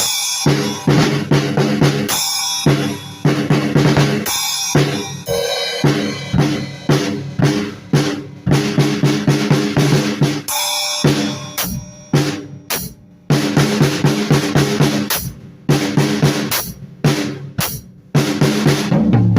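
Drum kit banged on loosely, bass drum and snare hits in uneven runs, the drums ringing on between strokes, broken by a few short gaps.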